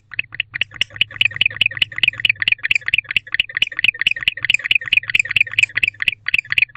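Male barn owl calling to his mate with a fast, even series of short chirps, about seven a second, a courtship call.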